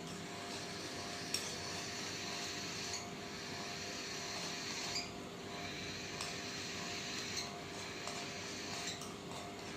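A spoon stirring baby-bird hand-feeding formula of Cerelac cereal and warm water in a small cup, with a sharp clink against the side every second or two.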